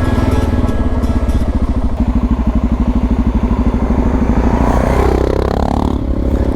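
Suzuki DR650's single-cylinder four-stroke engine running under way, with a steady, evenly pulsing exhaust beat. The engine note changes briefly about five seconds in.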